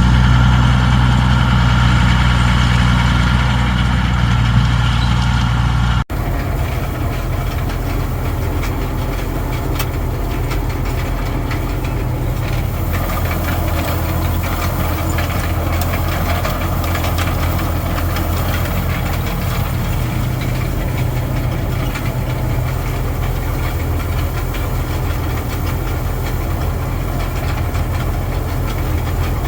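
Tractor diesel engine running steadily. About six seconds in it cuts abruptly to another steady engine sound, lower and rougher, with faint rattling clicks.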